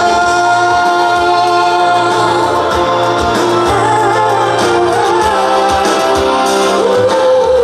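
Live pop ballad: a female singer holds a long sustained note, then sings a wavering melodic line over a band with bass and drums.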